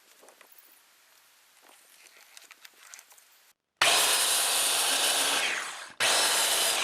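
Faint clicks of handling, then about halfway through a circular saw cuts loudly through particle-board siding, its blade set shallow to go only through the sheathing. The cut comes in two stretches with a short break, the first dying away as the saw lets off.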